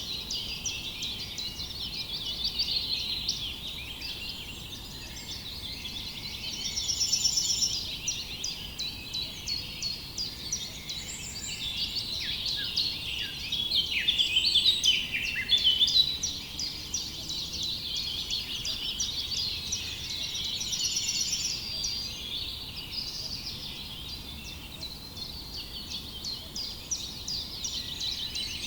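A dense chorus of many small birds chirping at once in an unbroken stream. A buzzy trill stands out twice, about a quarter and about three quarters of the way through.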